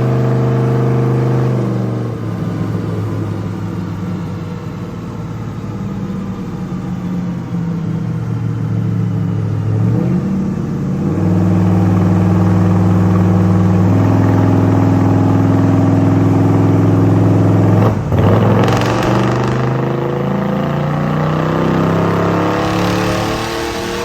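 Chevrolet engine in a 1930 Ford Model A hot rod running loud on a dyno, its pitch holding and stepping up in stages. About 18 seconds in there is a sharp break, then the engine revs up with a steadily rising pitch.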